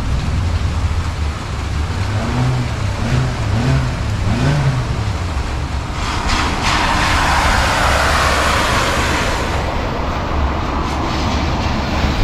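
Heavy rain outdoors with a low rumble of wind on the microphone and traffic moving on the wet road. A rushing hiss of water swells about halfway through, and a few sharp ticks of drops hit the camera.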